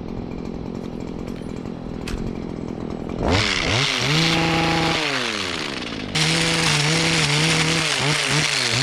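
Two-stroke petrol hedge trimmer idling, then revved up hard about three seconds in, dropping back, and revved again about six seconds in, its pitch wavering while held high.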